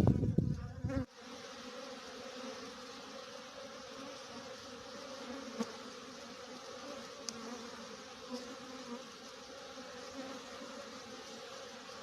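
Honeybees humming steadily as they fly in and out of the hive, foragers bringing in pollen. A loud low rumble in the first second cuts off suddenly before the hum.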